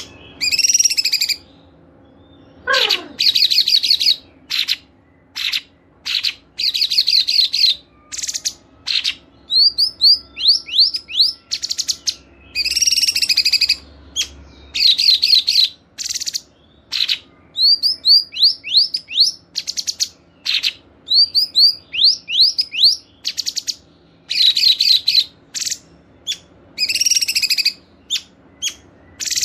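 Songbirds singing in quick bursts of rapid high chattering trills, sharp chips and short down-slurred notes, with brief pauses between phrases. A masteran recording of cage birds' song, meant to be clear and easy to imitate.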